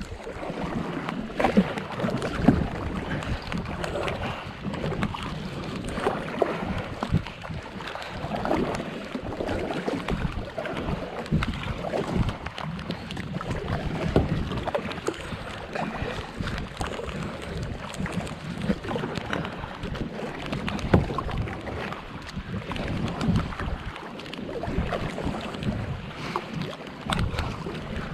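Heavy rain falling on the water surface, a dense, steady spatter of drops.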